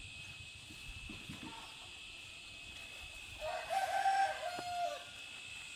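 A rooster crows once, a single long call of about a second and a half starting a little past halfway, over a steady high-pitched background tone.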